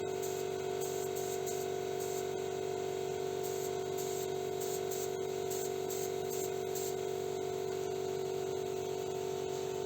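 Automotive paint spray gun spraying metallic base coat in short, repeated hissing spurts over the first seven seconds, over a steady mechanical hum.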